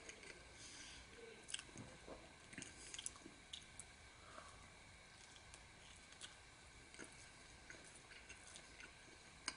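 Faint chewing and biting of food, with scattered small clicks and mouth noises.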